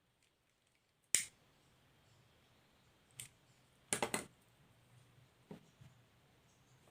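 A few sharp clicks and knocks over a faint low steady hum: a loud click about a second in, another about two seconds later, a quick cluster of clicks around four seconds in, then a softer one near the end.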